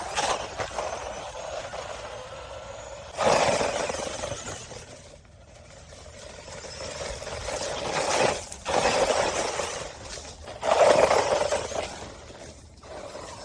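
Small electric 4WD RC truck running over rough ground, motor and tyre noise coming in several surges of a few seconds each, some starting abruptly.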